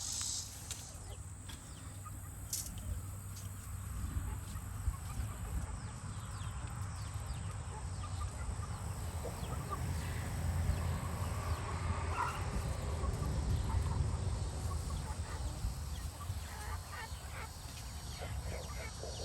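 Backyard chickens clucking, over a steady low rumble that swells in the middle.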